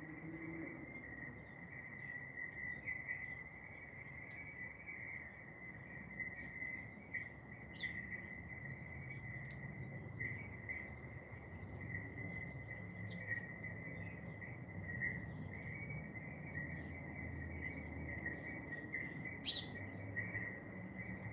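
A steady, unbroken high insect trill, like crickets, with scattered short bird chirps over it, two of them louder near the end.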